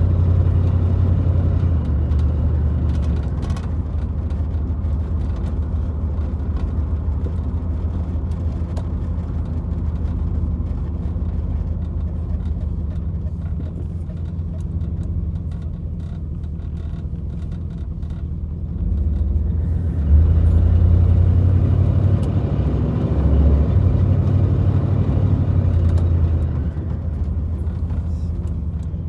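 Car or truck engine running while driving slowly, heard from inside the cab, with a low steady drone. It grows louder about two-thirds of the way through, then settles back down near the end.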